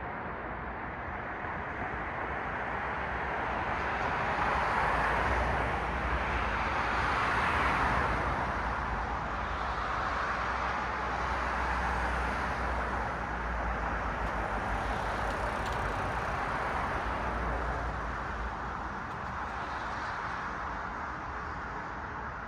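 Car traffic passing on a city street: steady tyre and engine noise that swells as vehicles go by, loudest a few seconds in and again near the middle, then eases off.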